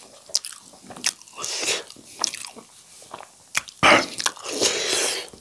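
Close-miked chewing of spicy noodles: wet smacks and short clicks of the mouth, with a longer, louder rush of mouth noise a little after halfway.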